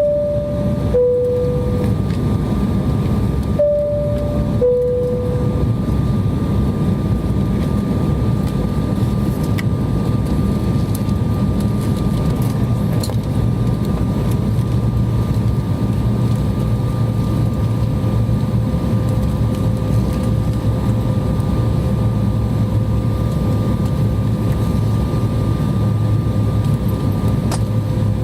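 Steady roar of a jet airliner's cabin, engine and airflow noise, heard from a window seat. Near the start a two-tone cabin chime sounds twice, each a higher note falling to a lower one.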